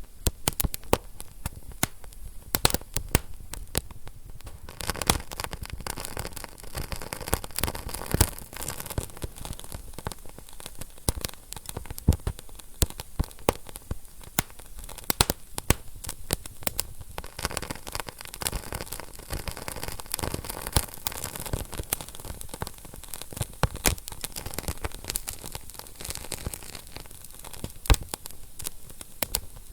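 Wood fire burning in a fireplace, crackling and popping with many irregular sharp snaps over a steady hiss.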